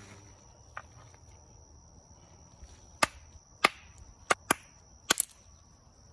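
Hard stones clicking and knocking together, a handful of sharp clicks, most of them bunched in the second half, some in quick pairs. Under them a steady high insect drone runs on.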